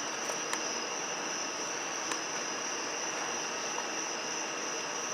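Steady chorus of insects shrilling on high, even tones over a constant rushing hiss, with a few faint ticks.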